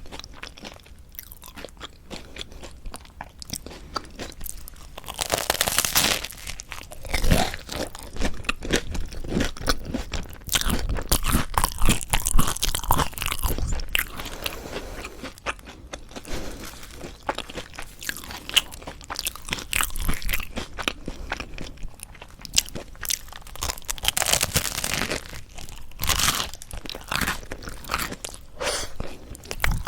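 Close-up crunching and chewing of toasted Korean salad bread, its crust toasted crisp and a little burnt, with denser, louder bouts of crunching at several points.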